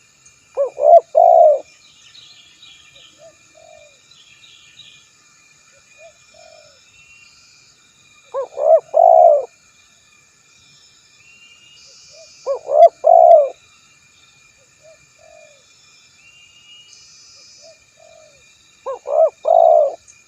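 Spotted dove cooing: four loud phrases about four to six seconds apart, each of two quick notes and a longer one. Softer single coos sound between the phrases.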